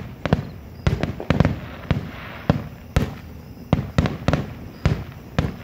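Fireworks grand finale: a rapid, irregular string of bangs and booms, two or three a second, each with a short echoing tail.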